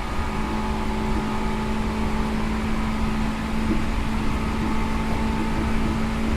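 Seibu New 2000 series electric train heard from inside the car: a steady low rumble with a constant hum whose pitch does not change.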